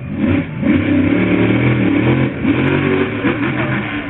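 Monster truck engine revving hard, its pitch rising and falling several times in quick succession.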